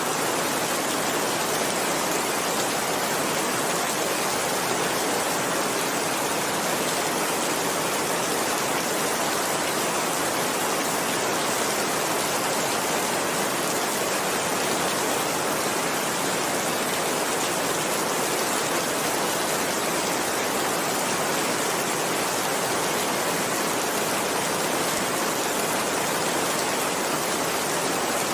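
Steady heavy rain, a dense even hiss of downpour with no single drops or thunder standing out.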